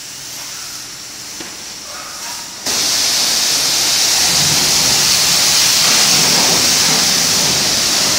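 Car wash high-pressure water spray hitting a car: a steady hiss that starts abruptly and loud about two and a half seconds in, after a quieter background hiss.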